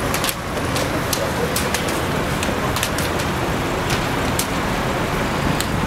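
Steady outdoor street noise: a low rumble of passing road traffic, with scattered light clicks.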